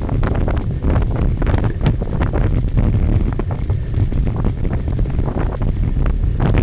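Heavy wind buffeting on the microphone of a camera moving through a cyclocross race, with a constant irregular rattling and clattering from riding over rough ground.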